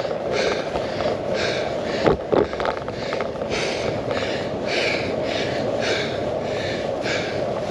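A cyclist panting hard while pedalling uphill, about two quick breaths a second, over a steady rush of wind and road noise. There is a sharp knock about two seconds in.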